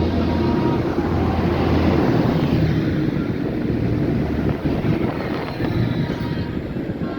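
Tractor diesel engine running loud as it drives past. It is loudest about two seconds in and then eases off.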